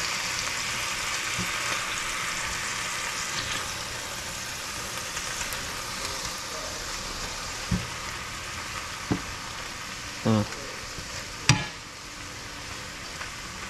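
Cubed grouper fillets sizzling in a hot cast-iron skillet as a spatula stirs them: a steady frying hiss that slowly softens. A few short knocks and clicks come in the second half, the sharpest about two-thirds through.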